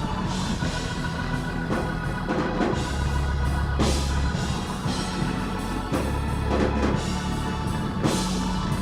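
Live church band playing a praise song instrumentally between sung lines: a drum kit beat over long, held bass notes.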